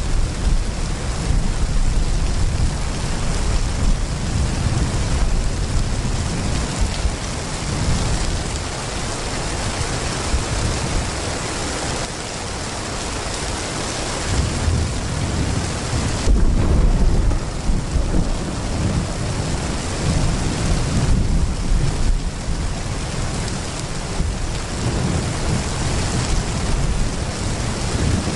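Heavy rain pouring steadily, with low thunder rumbling underneath. The rumble swells louder a little past the middle.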